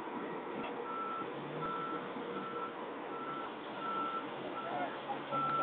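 Reversing alarm of a truck backing up at the wreck site, beeping steadily about every three-quarters of a second, starting about a second in, over a low engine hum.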